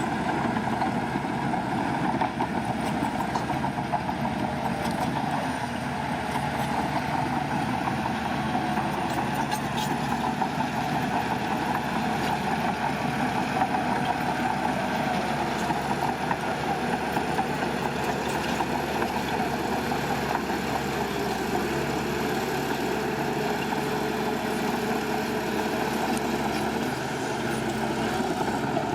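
Heavy construction machinery's diesel engine running steadily at a low, even speed.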